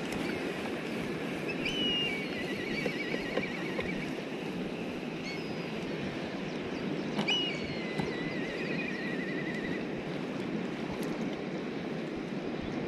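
A bird calls twice, about five and a half seconds apart. Each call is a sharp high note running into a whinnying trill that falls in pitch over about two seconds, and a short chirp comes between the two calls. Under it runs a steady low rushing noise.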